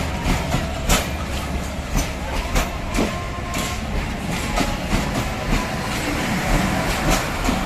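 Bangladesh Railway train running on the rails, its wheels clacking over rail joints at uneven intervals over a steady rumble.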